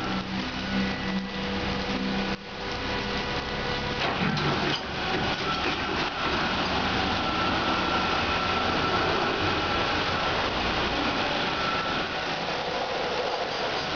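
Ceccato Ginga W 240 rollover car wash running with its polyethylene brushes: a steady rushing noise with a thin motor whine on top. A low hum drops out about two seconds in.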